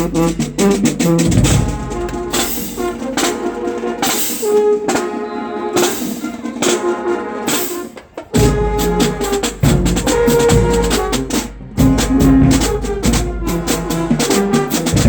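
College marching band playing, with brass horns and a drumline. The deep bass drops out about a second and a half in and comes back on a hit about eight seconds in.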